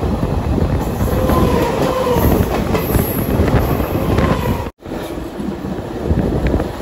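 Indian Railways express train running at speed: a loud steady rumble of coach wheels on the track with clickety-clack, and a faint thin wheel squeal that comes and goes. A split-second dropout breaks it about two-thirds of the way through.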